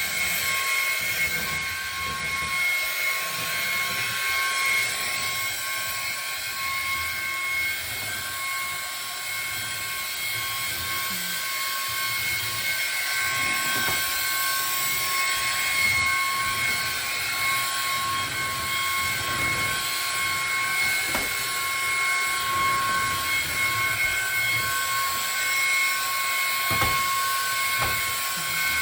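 Ryobi cordless stick vacuum running steadily: a high motor whine over the hiss of rushing suction air.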